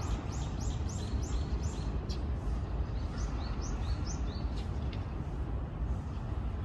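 A small songbird calling a run of short, high, quickly repeated notes, about three a second: one run ending about two seconds in, another from about three to four and a half seconds in. A low steady rumble runs underneath.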